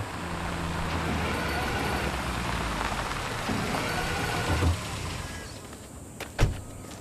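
A vehicle engine running steadily, easing off about five seconds in. A single sharp thump comes near the end.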